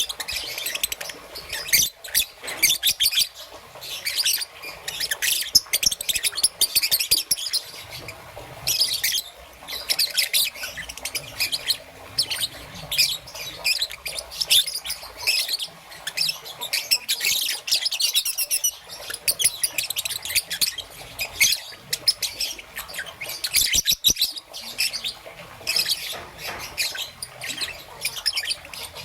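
Peach-faced lovebird chirping in a rapid, continuous stream of high, shrill chirps, with a couple of brief pauses.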